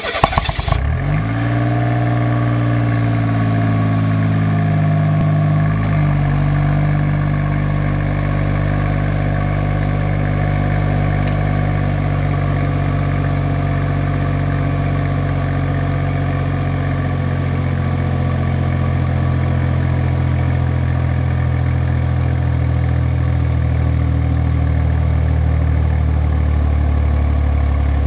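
Suzuki Wagon R engine being started and idling through its muffler: it catches at the very start, the idle speed drops over the first few seconds and settles about six seconds in, then it idles steadily.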